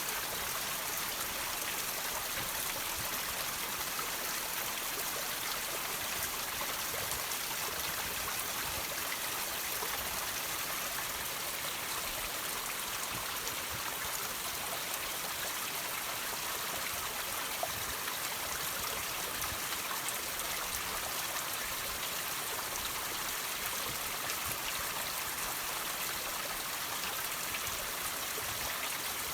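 Water dripping and trickling off rocks, a steady, even splashing hiss that sits mostly in the high range.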